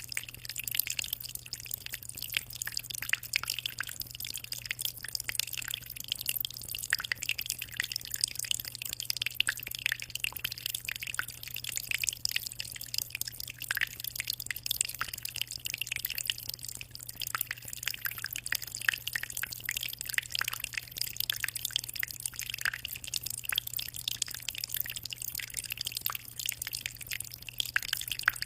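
Aquarium water trickling and dripping steadily: a dense, unbroken patter of small splashes and bubbles. A steady low hum sits beneath it.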